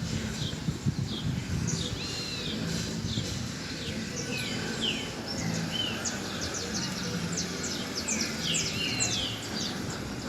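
Many small birds chirping and calling together, short arched and down-sweeping notes overlapping throughout, over a low steady murmur.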